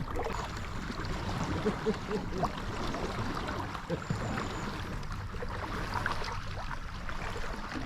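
Water sounds of inflatable kayaks being paddled on a river: an even wash of splashing and lapping with small scattered paddle knocks, and faint voices.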